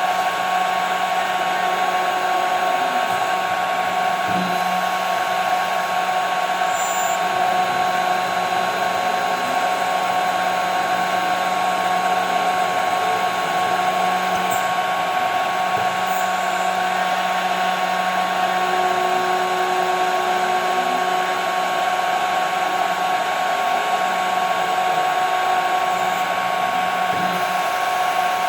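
CNC router spindle running at high speed, a steady high whine, as the cutter mills 5 mm plexiglass.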